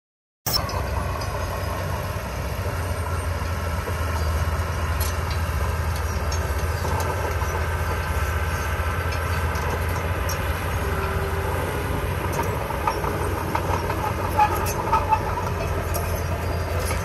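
Diesel engine of heavy earthmoving machinery running steadily, with metallic clanking and squealing on top. A brief cut of silence comes right at the start.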